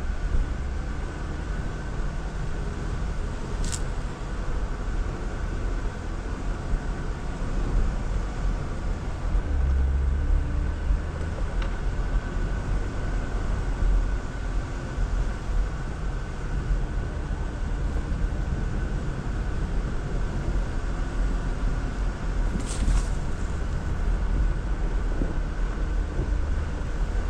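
Jeep Wrangler Rubicon driving slowly over a snowy off-road trail, its engine and tyres giving a steady low rumble. A brief sharp knock or scrape comes about four seconds in, and two more come near the end.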